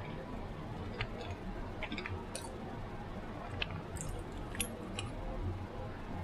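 Close-miked eating sounds: chewing, with irregular wet clicks and smacks from the mouth, over a steady low background hum.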